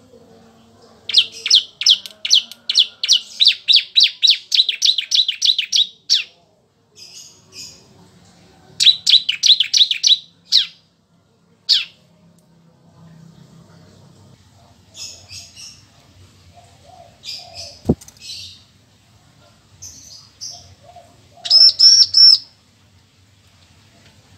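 Bar-winged prinia (ciblek) singing: fast trains of high, sharp notes, about four a second, in two long bursts, then scattered shorter calls.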